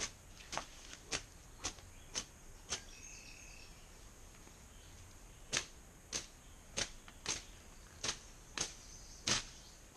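A makeshift brush cutter swung in quick strokes through brush, about two swishes a second, pausing for a few seconds in the middle. A steady high insect drone runs underneath.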